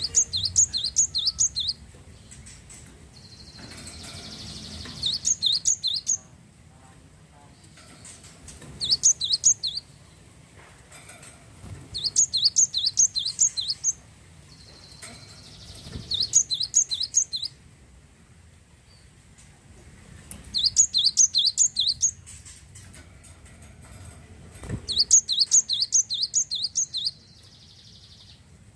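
Glatik wingko (cinereous tit, glatik batu) singing about seven short phrases of quick, repeated high notes, around five notes a second. Each phrase lasts one and a half to two seconds, with a pause of a few seconds before the next.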